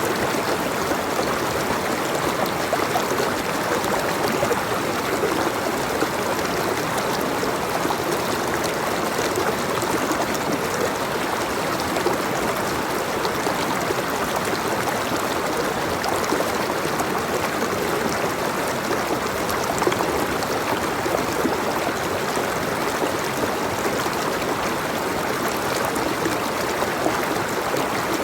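Water flowing steadily, a continuous even rushing and babbling with no pauses.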